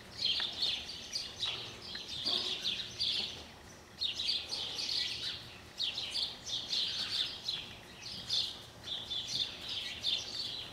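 Small birds chirping and twittering in quick runs, with a short lull about four seconds in.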